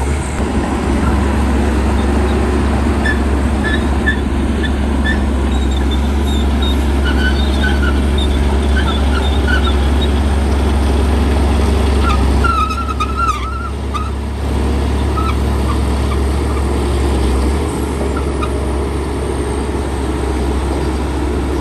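Heavy diesel earthmoving machinery running steadily with a deep low drone. Short high chirps sound over it, and the level dips briefly about two-thirds of the way through.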